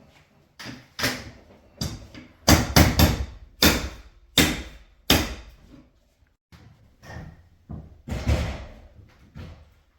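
A series of about a dozen heavy knocks and thuds, irregularly spaced half a second to a second apart, with a pause about six seconds in.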